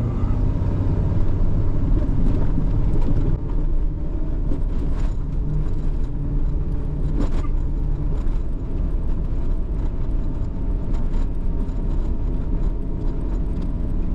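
Work truck driving slowly: a steady low engine and road rumble, with a few faint knocks along the way.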